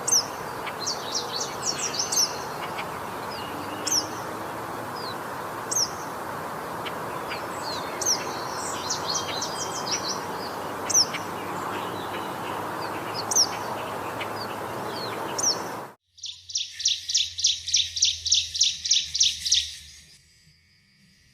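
Short, high bird chirps over a steady background hiss. About sixteen seconds in, it cuts to a different bird giving a fast series of about a dozen identical high notes, some four a second, for about three seconds.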